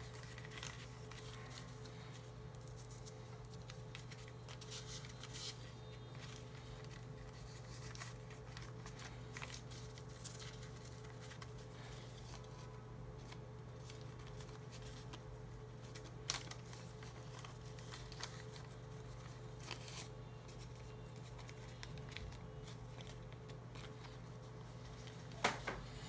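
Faint rustling and a few soft crisp taps of a thin banknote being folded and creased by hand, over a steady low hum.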